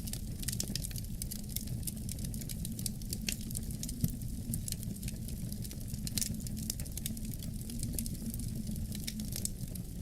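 Wood fire in a fireplace crackling, with frequent sharp pops and one louder pop about four seconds in, over a steady low rumble.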